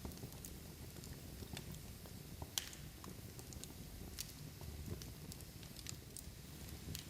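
Large log fire burning: a low rumble with irregular crackles and pops from the burning wood, a sharper pop about two and a half seconds in and another about four seconds in.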